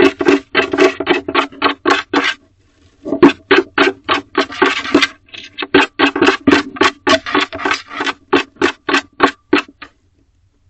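Female barn owl scratching the inside wall of her nest box: rapid rasping strokes, about four a second, in runs broken by short pauses about two and a half seconds in and near the end.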